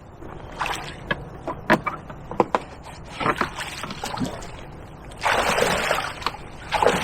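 Shallow river water and mud splashing and sloshing around a motorcycle being recovered, with scattered sharp knocks and clicks. About five seconds in comes a louder rush of splashing that lasts about a second.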